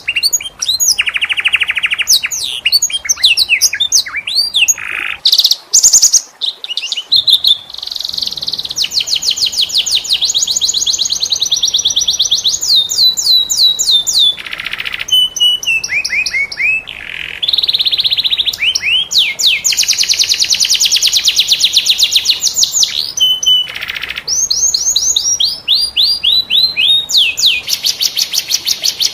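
Domestic canary singing continuously in long rapid trills and rolls of fast repeated notes, mixed with sweeping whistled phrases and a few short breaks.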